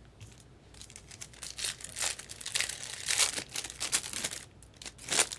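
Trading card packaging crinkling and tearing as it is opened by hand, in irregular crackling spurts.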